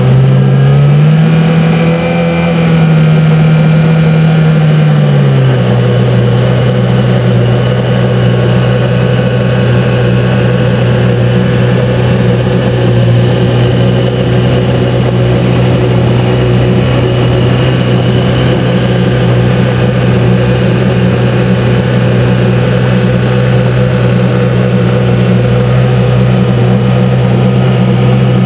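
Engine idling, revved up once between about one and five seconds in, then settling back to a steady idle. The owner hears a noise in it like a loose piece of metal moving about inside the engine, barely audible on the recording.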